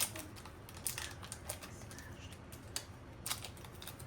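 Irregular sharp clicks and light crinkles from a small cheese being unwrapped and handled, about five over a few seconds, the loudest at the very start, over a faint low hum.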